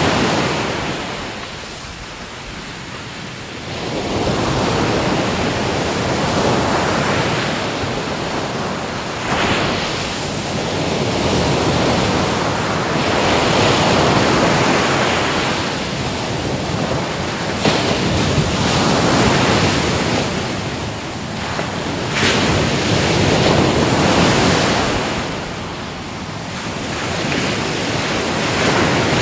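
Ocean waves breaking and washing in, swelling and easing every few seconds, with wind buffeting the microphone.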